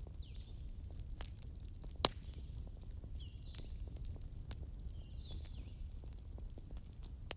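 Wood fire crackling, with scattered sharp pops over a low steady rumble; the loudest pop comes about two seconds in and another near the end.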